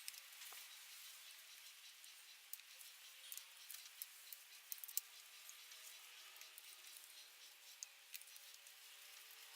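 Near silence: faint hiss with scattered small, sharp clicks and ticks.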